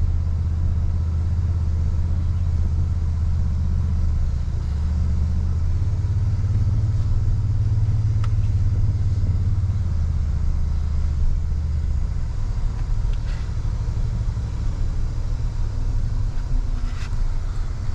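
Toyota Tundra pickup's engine running low and steady, heard from inside the cab as the truck crawls a muddy, rocky trail. The engine note rises a little about six seconds in and settles lower again around twelve seconds.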